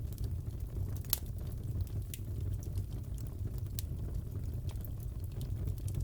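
Fire crackling in a fireplace: a steady low rumble of flames with scattered sharp pops and snaps, the loudest pop about a second in.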